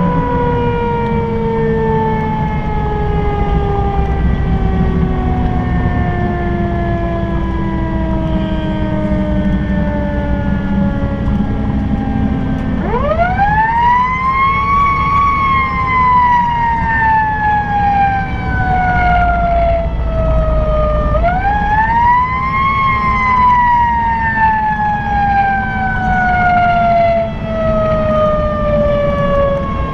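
Fire engine siren wailing over the truck's engine and road noise. The tone slides slowly down for the first half, then is swept sharply up and left to fall slowly, again about eight seconds later, and once more at the very end.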